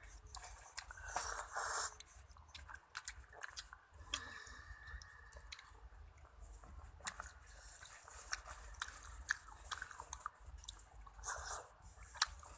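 Close-up chewing and biting of squid from a spicy seafood salad: wet mouth noises with scattered small clicks.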